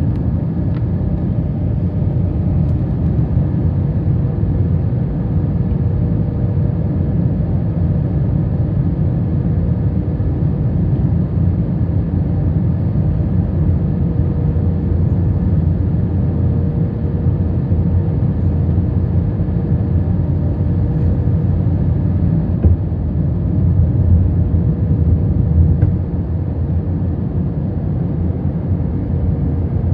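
Steady cabin noise of an Airbus A321 airliner on descent: a low, even rumble of engines and airflow, with a faint steady hum above it.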